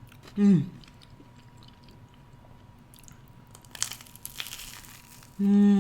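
Crunching and chewing of a crispy grilled cheese sandwich: a few sharp crackles in the middle. A short falling "mm" hum comes about half a second in, and a longer one near the end.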